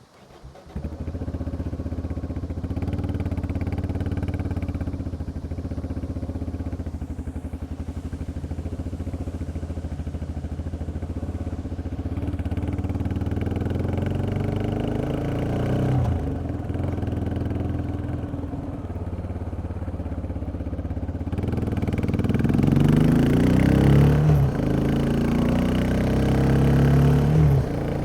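Yamaha XT 660X single-cylinder four-stroke engine with its stock exhaust starting about half a second in, then idling steadily. From about halfway its speed rises and falls a few times, and near the end it runs louder and higher for several seconds before dropping back to idle.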